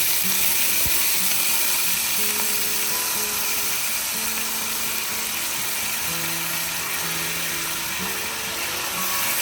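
Rice sizzling in hot oil in a frying pan, a loud steady hiss that starts suddenly as it goes in and eases a little after a few seconds. Background music plays over it.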